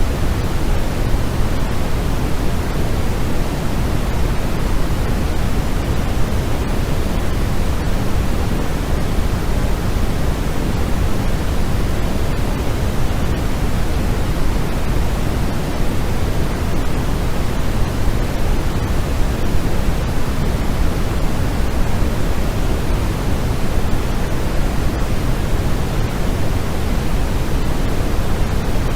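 Steady white noise of the kind played for sleep: an even, unchanging hiss, fuller in the low end than the high, with no events in it.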